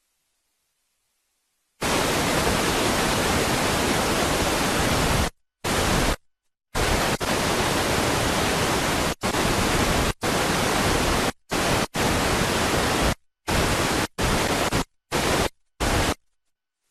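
Loud, even static-like hiss spread across all pitches, starting suddenly about two seconds in and then cutting on and off abruptly in about a dozen stretches of different lengths, with dead silence between them.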